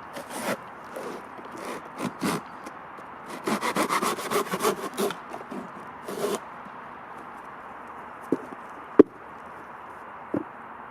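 Hand-tool work on wood: a series of scraping and rubbing strokes, with a quick run of them around the middle. A few separate clicks follow, one of them sharp and the loudest sound.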